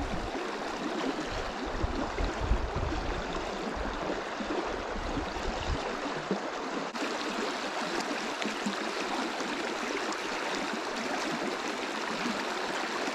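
River water rushing steadily over shallow rock riffles, with uneven low rumbling through the first half.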